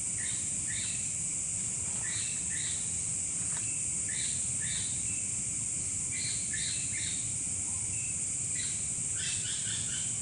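Short, high bird calls repeating in twos and threes, with a quick run of notes near the end, over a steady chorus of night insects such as crickets.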